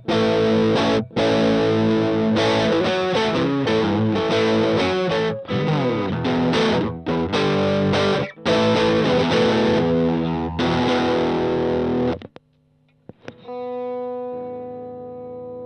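Stratocaster electric guitar played through a Valeton Dapper mini amp-simulator pedal on a distorted setting, strumming chords with short muted stops between them. About twelve seconds in the playing stops, and then a single chord is struck and left ringing, slowly fading.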